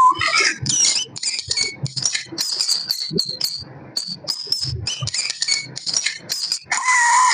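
Baby chick cheeping in rapid, short, high-pitched chirps, mixed with quick taps and rustles.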